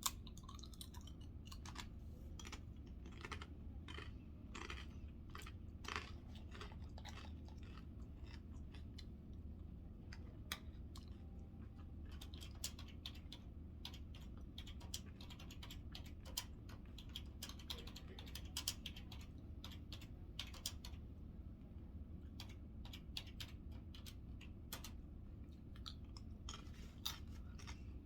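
A person chewing a mouthful of chicken burrito bowl close to the microphone: many short, irregular wet mouth clicks, over a steady low hum.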